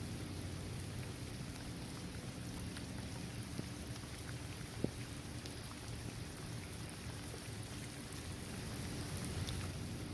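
Steady rain falling on a paved basketball court, trees and grass, an even hiss with scattered single drops ticking and one sharper drop about five seconds in.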